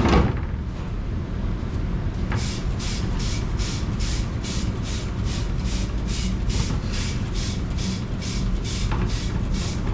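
Commercial dishwashing machine running: a steady low rumble with a rhythmic swishing hiss of water spray, about three swishes a second, starting about two seconds in.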